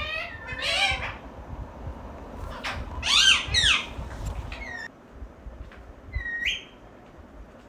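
Pet green parrot calling: a series of harsh, squawking calls that arch and fall in pitch, loudest about three seconds in, with a shorter call about six seconds in.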